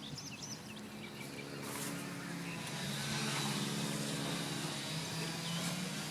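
A motor engine running steadily, growing louder and noisier about two and a half seconds in, with a few birds chirping faintly.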